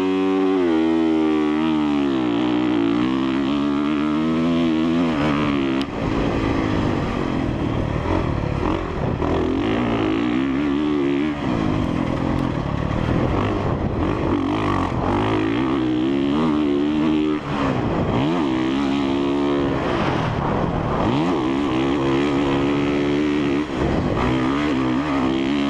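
2017 Honda CRF450R's single-cylinder four-stroke engine pulling away hard at the start, then revving up and down over and over as the rider shifts and rolls on and off the throttle on the motocross track. The engine note drops briefly every few seconds.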